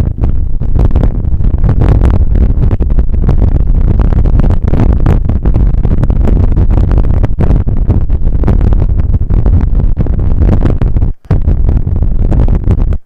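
Wind buffeting the microphone of an action camera on a moving bicycle: a loud, steady low rumble, broken by many short knocks and rattles from the ride. It cuts out briefly about eleven seconds in.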